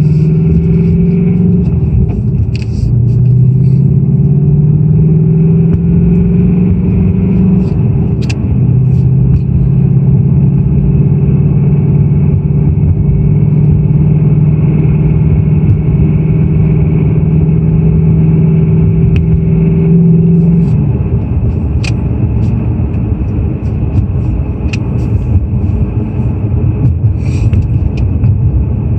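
2018 Mustang GT's 5.0 L Coyote V8 running at a high cold-start idle with a rattle, which the owner takes for piston slap and not the high-pressure fuel pump. The engine note dips twice in the first several seconds and settles lower about twenty seconds in, with scattered sharp ticks throughout.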